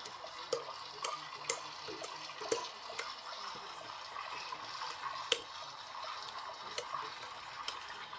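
LG washing machine running its rinse cycle: water sloshing in the turning drum, with sharp clicks every half second to a second or so and one louder knock about five seconds in.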